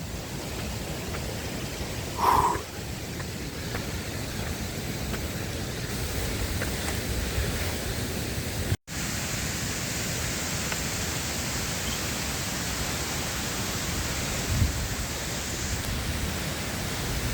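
Steady rush of falling water from a waterfall. There is a brief short sound about two seconds in, and a momentary drop-out near the middle, after which the rush sounds brighter.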